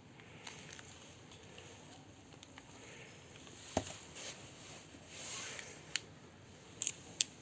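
Faint rustling and handling noise with a few sharp clicks, the loudest about four seconds in and three more near the end.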